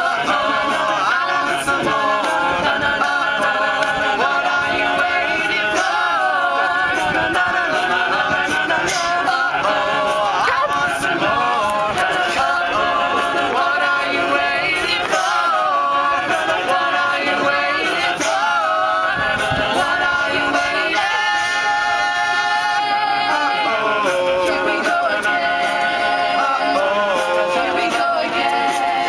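An a cappella vocal group singing, several voices in harmony with no instruments.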